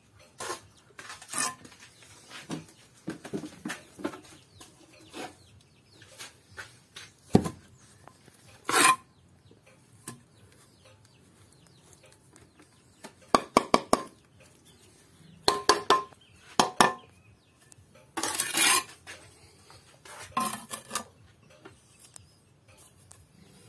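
Irregular sharp clinks and taps with a few short scrapes, some taps coming in quick runs of four or five: hand tools knocking and scraping on brick and mortar.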